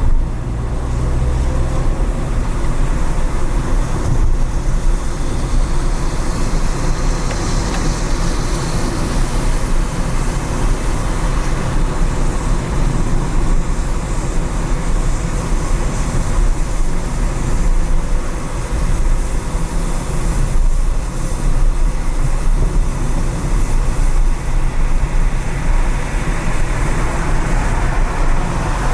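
A car driving on rain-wet city streets: a steady low engine and road rumble with tyre noise, and the sound of other traffic.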